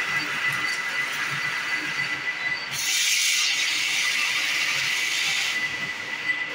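Compressed air hissing steadily with a thin whistle, blowing carbon dust and dirt out of a rusted starter motor. A harder, brighter blast comes about three seconds in and eases off a couple of seconds later.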